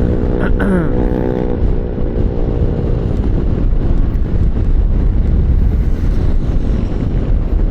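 Motorcycle on the move: an engine hum whose pitch drops briefly about half a second in, giving way after a second or so to a steady low rumble of wind and road noise on the microphone.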